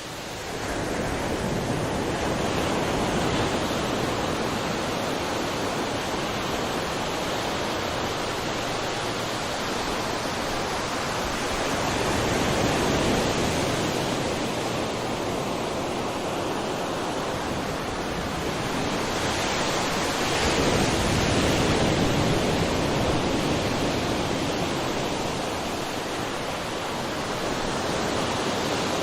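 Sea waves washing on a shore in a continuous rushing hiss, swelling and easing slowly every several seconds.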